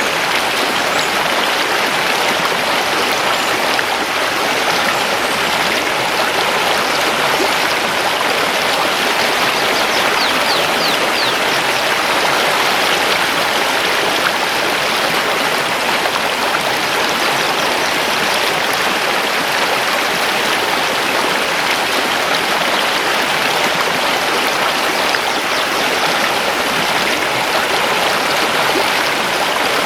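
Mountain river rushing steadily over stones, a full, even water noise. A few faint, high forest-bird chirps come through about ten seconds in.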